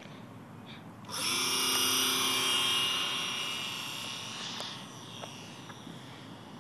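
Electric motor and propeller of a radio-controlled Super Cub model plane spinning up about a second in with a brief rising whine, then a steady high whine that fades away before the five-second mark.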